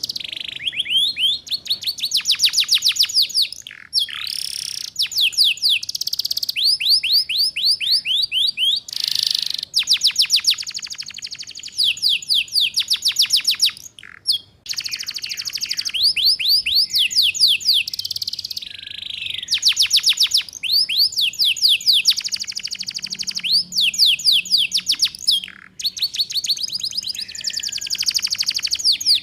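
Domestic canary singing the rapid 'ngeriwik' trill: high phrases of fast-repeated notes, each a second or two long, with short breaks between phrases. This is song used as a master for young canaries to learn from.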